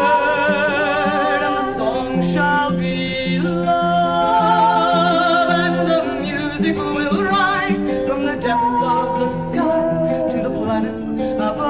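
Woman singing long, held notes with vibrato over instrumental accompaniment, in a folk-style filk song.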